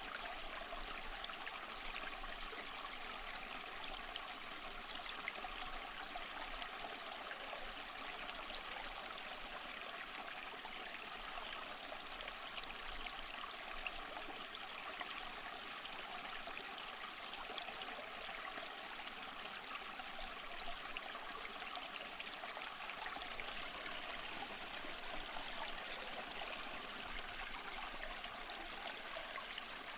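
Running water, a steady even splashing hiss with little deep rumble, unchanging throughout.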